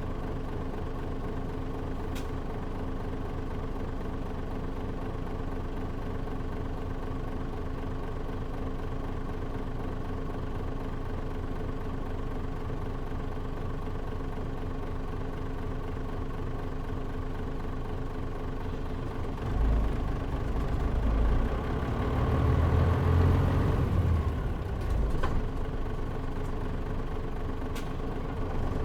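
Diesel engine of a Mitsubishi Fuso KL-MP37JM city bus idling steadily, heard from inside the cabin. About two-thirds of the way through the engine note rises and grows louder as the bus pulls away.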